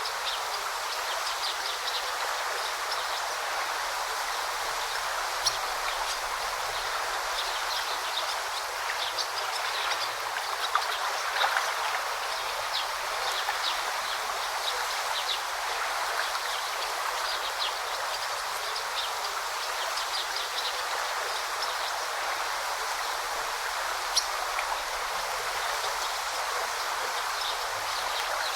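A river flowing steadily over rocks, with a constant rushing and frequent small, high splashes and droplet ticks.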